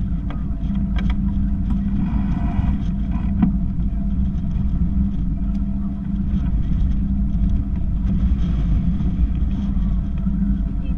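Steady low engine drone, a constant hum over heavy low rumble, with wind buffeting.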